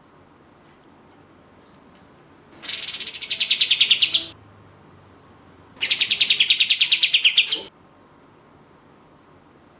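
Kapas tembak songbird giving two loud, fast stuttering trills about a second and a half apart, each lasting under two seconds and dropping in pitch as it goes.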